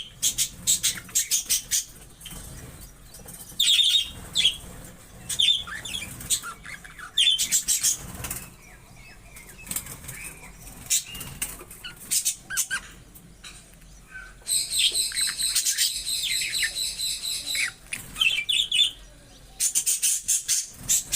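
Pet budgerigars chirping in short, high calls, with bursts of rapid wing fluttering.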